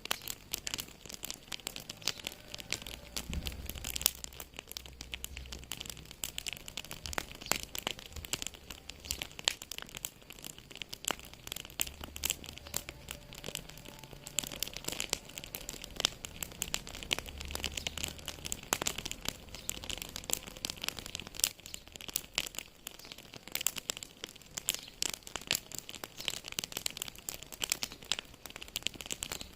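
Wood fire crackling and popping: dense, irregular sharp snaps over a faint low rumble of flames.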